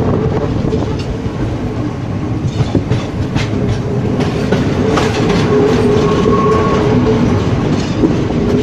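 Passenger train running, heard from on board: a steady rumble of the wheels with irregular clicks as they clatter over the rail joints, and a steady whine underneath.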